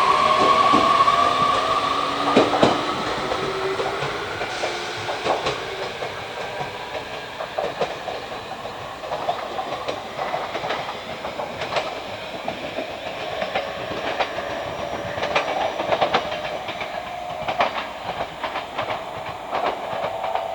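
A train running through the station and moving away: its wheels click over the rail joints while a whine slowly rises in pitch. The sound fades over the first half, then goes on at a lower level with continued wheel clicks.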